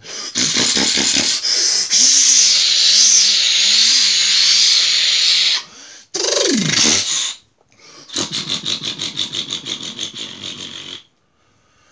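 Modified John Deere 4420 pulling tractor's high-horsepower diesel engine running loud and raspy at full throttle. Its pitch drops and climbs back about six seconds in, then it turns into a fast rattling pulse that fades away near the end.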